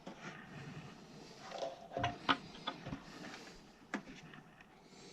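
Light clicks and taps of small parts being handled during furnace work, the sharpest about two seconds in and another near four seconds.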